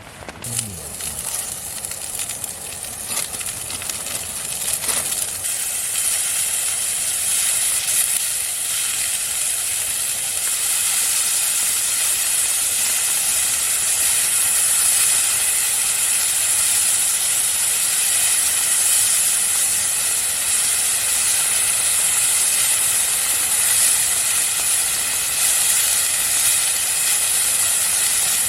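Food sizzling hard in a hot pan over a campfire: a loud, steady hiss that starts as the food goes in and builds over the first few seconds.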